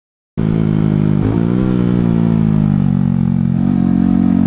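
KTM 690 single-cylinder motorcycle engine running at a steady pitch, with a slight dip and rise in revs about a second in. It cuts in suddenly after a moment of silence at the very start.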